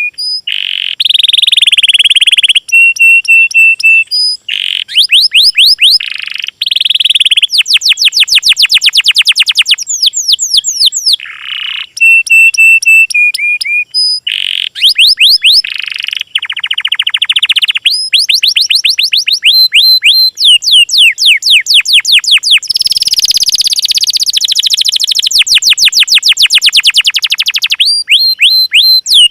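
Songbird song cut together phrase after phrase: rapid trills and fast series of sweeping notes alternate with short runs of repeated high whistles, all loud and with abrupt changes between phrases.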